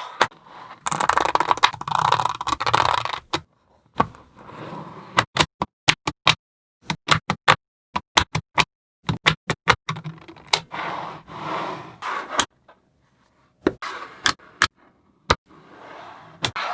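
Small magnetic balls clicking sharply as they snap together one by one, with two longer spells of rattling and scraping as a strip of balls is rolled and pushed into shape.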